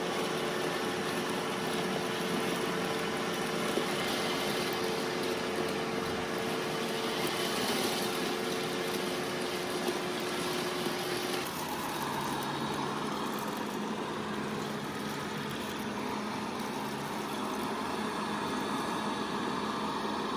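Robot vacuum cleaner running over a floor scattered with cat hair and steel-cut oats: a steady whir of suction fan and brushes with a couple of steady hums. About eleven seconds in the sound changes to a lower hum.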